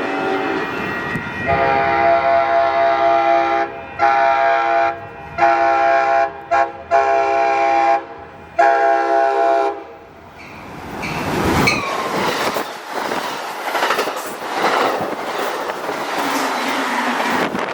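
A passenger train's multi-chime locomotive horn sounds a series of blasts, several long with short breaks between them. It then stops and gives way to the loud rushing of the train passing at speed.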